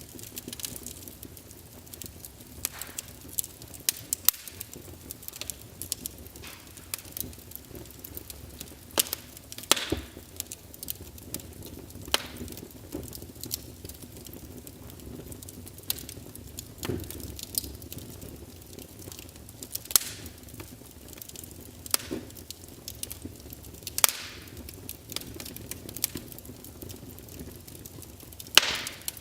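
Wood fire burning in a fireplace, crackling with irregular pops and a few louder snaps over a low steady rumble of the flames.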